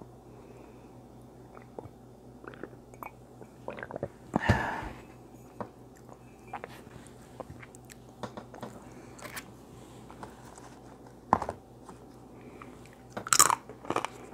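A person chewing food close to a clip-on microphone, with many small wet mouth clicks. A louder, noisier sound comes about four and a half seconds in and another near the end.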